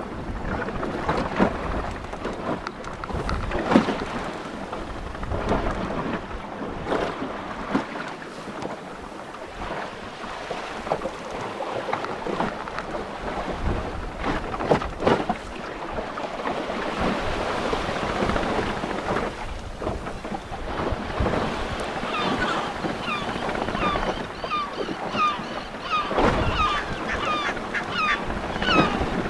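Strong wind buffeting the microphone and waves slapping against the hull of a small sailboat at anchor, with irregular knocks. From about two-thirds of the way in, a flock of birds calls over it with short, falling cries, several a second.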